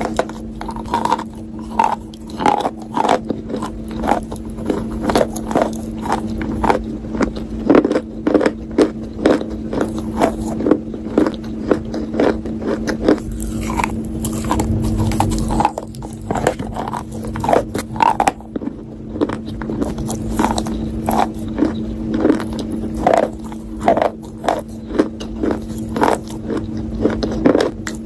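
Close-up crunching and chewing of a hard, brittle earthy material, eaten for ASMR. There are many sharp, irregular crunches, several a second, over a steady low hum.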